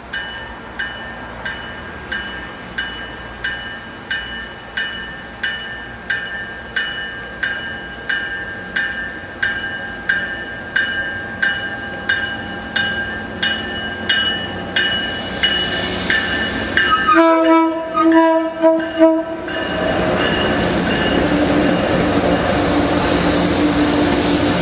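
An approaching locomotive's bell ringing at about one and a half strikes a second, growing steadily louder, then the locomotive horn sounding a string of short blasts in a hornshow, followed by the train running past close by.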